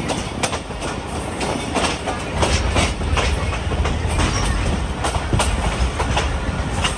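Passenger train hauled by a diesel locomotive: a run of sharp clicks and clanks, about two a second, over a low rumble that grows louder about two and a half seconds in.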